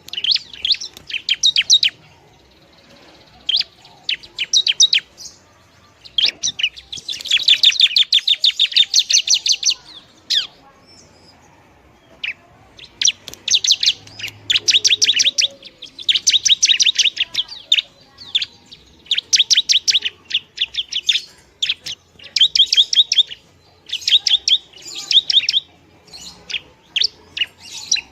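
Long-tailed shrike (pentet) singing: repeated bursts of rapid, chattering notes, each burst a second or two long with short pauses between, one longer burst about a third of the way in.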